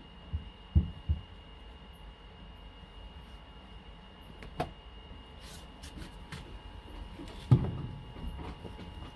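A few dull thumps and knocks from laundry being loaded into a top-loading washing machine: three close together about a second in, a lighter one midway, and the loudest near the end, over a faint steady hum.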